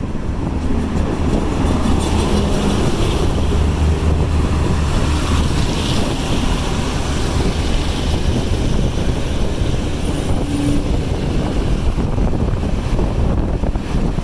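Irish Rail Class 2600 diesel multiple unit pulling into the platform, its diesel engines and wheels running with a steady low rumble that is heaviest a few seconds in.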